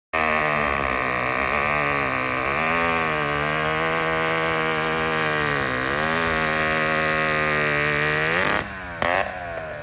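Vintage two-stroke chainsaw running at high revs, its pitch dipping twice as if under load in the cut. The revs drop off sharply near the end, with one short blip, as the engine winds down.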